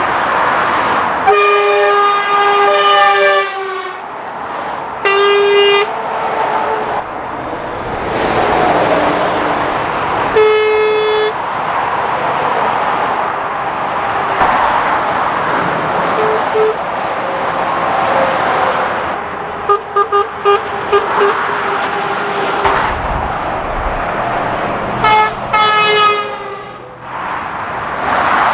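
Lorries and traffic passing at speed on a dual carriageway, with horns sounding several times: a long blast about a second in, short toots around five and ten seconds, a run of quick beeps about twenty seconds in, and another blast near the end.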